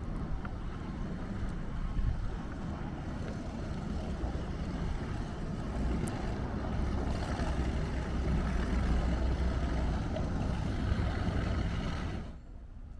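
Motorboat engine running steadily, a low rumble with some wind noise, cutting off abruptly near the end.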